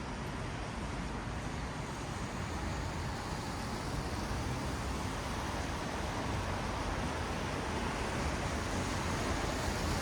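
Traffic on a wet city road: a steady hiss of tyres on rain-soaked asphalt with a low rumble, swelling slightly toward the end.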